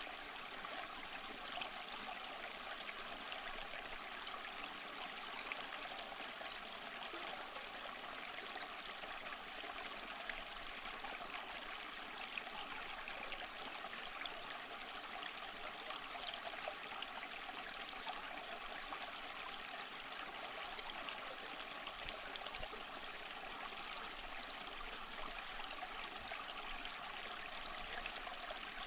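Waterfall water running continuously: a steady, even splashing hiss, mostly high, with little low rumble.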